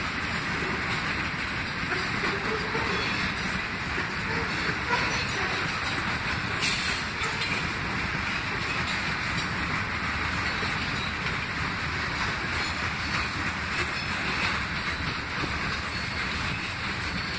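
Freight train of boxcars and covered hopper cars rolling past at steady speed, its steel wheels running on the rails in an even, continuous rumble.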